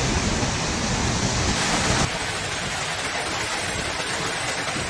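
Storm noise: a steady rushing of wind and heavy rain on the microphone, changing abruptly about two seconds in where one clip cuts to another.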